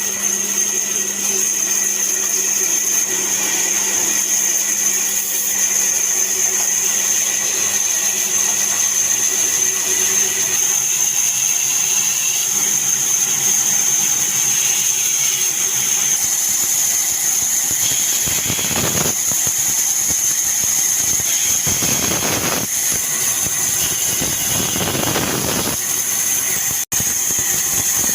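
A woodworking power tool running with a steady high whine. Three stretches of rougher noise come in the later part, where the tool is cutting into wood.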